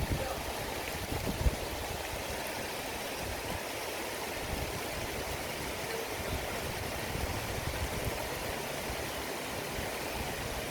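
River water rushing steadily, an even hiss of flowing water, with a few low bumps of wind or handling on the microphone in the first second or so.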